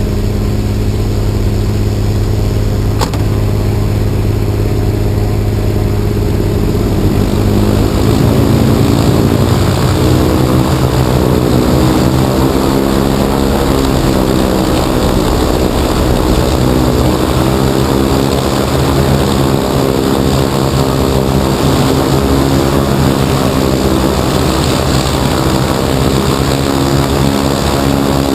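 Heavy engines running steadily. About seven seconds in, a second engine note comes in above the first and the sound grows louder.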